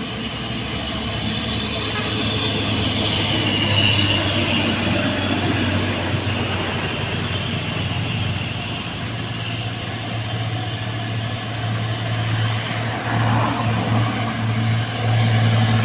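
Heavy truck engine running steadily under load with a low drone and a thin high whine, getting louder near the end as it draws closer.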